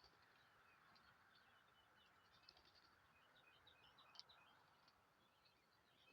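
Faint chorus of small birds, many short chirps and tweets overlapping, over a steady low hiss of background noise; one sharper chirp stands out about four seconds in.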